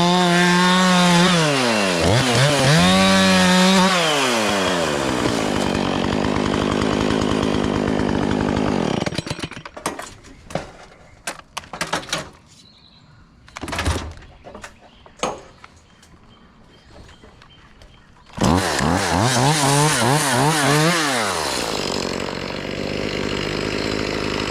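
Gas chainsaw revving with its pitch rising and falling, then settling to a steady idle. It goes quiet for about nine seconds, broken only by scattered knocks and clatters. It then revs hard again with a wavering pitch and drops back to idle near the end.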